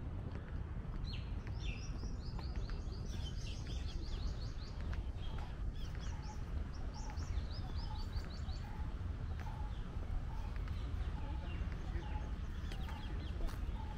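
Birds chirping in quick runs of short high notes for several seconds, with fainter calls later, over a steady low rumble.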